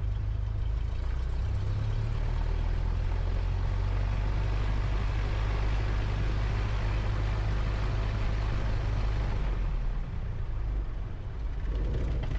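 Cessna 172's piston engine and propeller idling at low rpm, a steady low hum. About ten seconds in the engine note falters and breaks up as the engine is shut down, and a louder rattling noise follows near the end.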